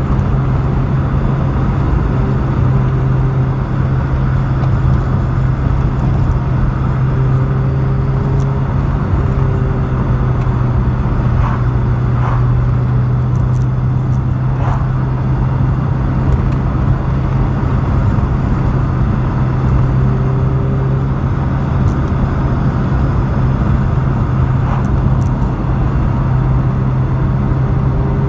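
Mk2 Vauxhall Cavalier's 2.0-litre SEH four-cylinder engine at a steady cruise, heard from inside the cabin: an even engine drone with road and tyre noise, pitch holding level with no revving or gear changes.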